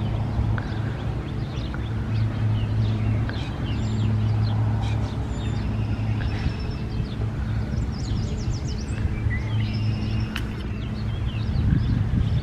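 Many small birds chirping in quick, short calls over a steady low hum.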